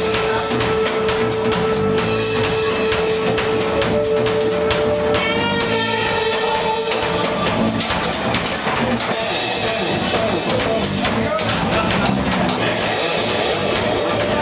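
A rock band playing live, with a drum kit. A single long note is held for about the first seven seconds before the full band carries on.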